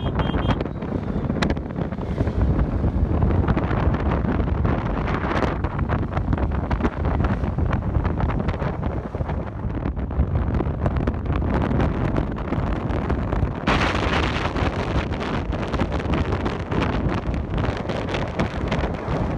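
Wind buffeting the microphone in a steady, rumbling roar, with a brighter hiss joining about two-thirds of the way through.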